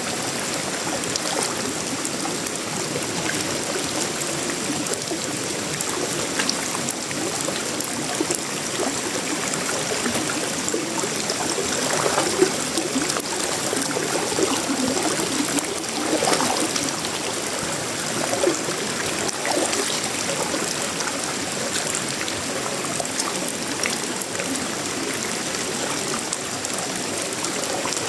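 Steady tropical rain falling on a sheet-metal roof, wood and leaves, with water running and trickling off. There are brief louder surges about twelve and sixteen seconds in.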